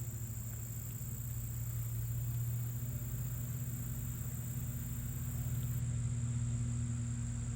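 Crickets trilling steadily, over a constant low hum.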